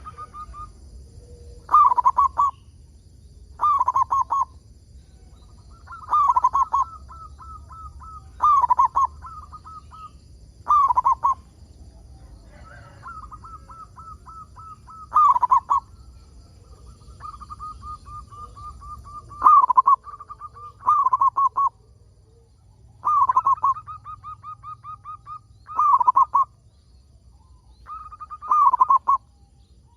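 Zebra dove (perkutut) cooing over and over: short loud phrases of trilled coos about every two seconds, joined by softer, rapid runs of staccato notes.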